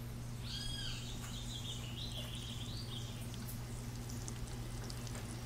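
A bird chirping a run of short calls in the first few seconds, over a steady low hum and hiss.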